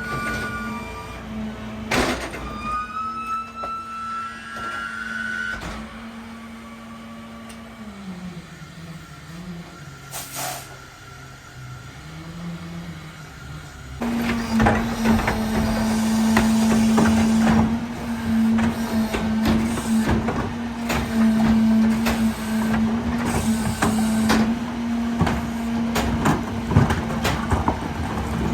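Garbage truck with a rear-loader packer body, its engine and hydraulics running with a steady drone. About two seconds in there is a sharp bang with metallic squeals. The engine then drops lower for a few seconds, and about halfway the sound jumps louder, with many clanks and crunches over the steady drone.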